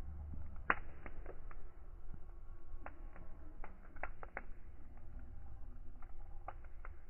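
Fireplace fire crackling: irregular sharp pops and snaps, the loudest about a second in, over a low steady rumble of the flames.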